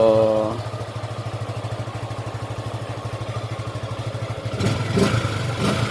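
Suzuki Gixxer 155's single-cylinder engine idling steadily with a low, even exhaust pulse through its stock muffler, which the owner finds too quiet. A few brief louder bursts come near the end.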